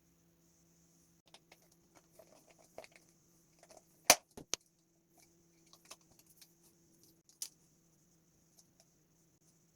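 Scattered small clicks, taps and light rattles of hard parts being handled, with one sharp click about four seconds in.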